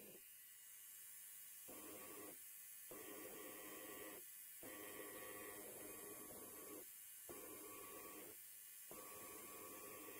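Faint buzzing of an electric hair clipper, coming in five stretches of one to two seconds with short breaks between, starting a couple of seconds in.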